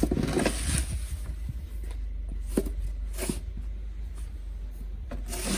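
A few short crunching, scraping strokes in snow, of the kind made by snow being shovelled or trodden, over a steady low rumble.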